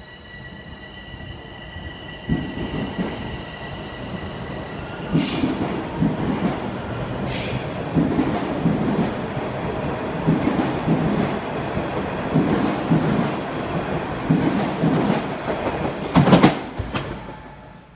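Toronto subway train running on the track, its wheels clacking over rail joints in an uneven beat that grows louder, with a few sharp metallic bangs. A steady high whine sounds at first and stops about five seconds in, and the sound cuts off suddenly near the end.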